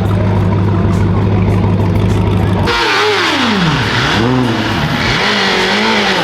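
A steady low drone for the first two and a half seconds, then a sudden change to a car engine being revved several times, its pitch swooping up and down.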